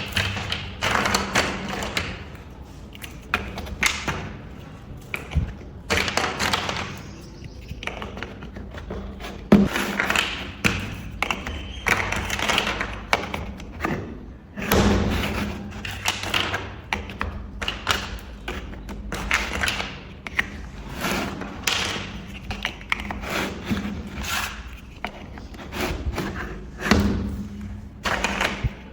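Plastic building bricks clicking and knocking as they are handled, set down and pressed together, in an irregular run of sharp taps and thuds, over a faint steady low hum.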